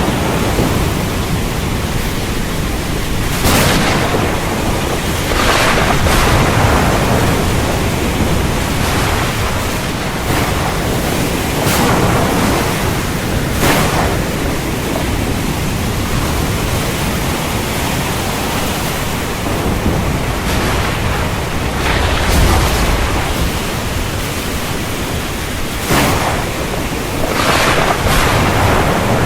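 Heavy rain falling steadily, with brief surges of louder downpour every few seconds and a low rumble of thunder a little past the middle.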